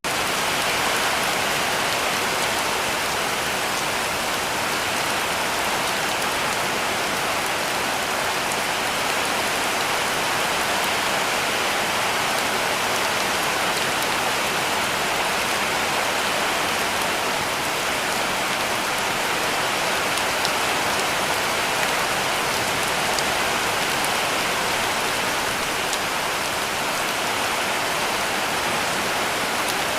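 Heavy rain falling steadily on a cabin roof, an even hiss with faint scattered drop ticks.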